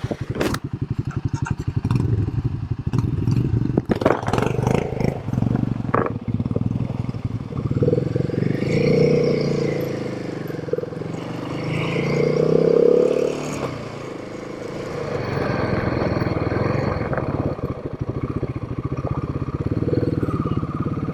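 Royal Enfield Himalayan 452's single-cylinder engine running on the move, its pitch rising and falling between about 8 and 14 seconds. A few sharp knocks and rattles come in the first six seconds.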